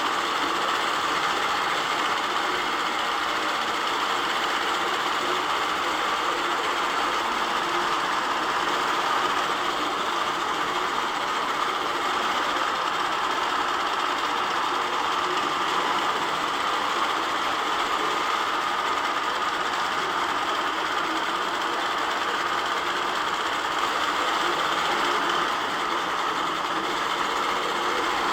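Longarm quilting machine stitching steadily, its motor and needle running at an even level with no breaks.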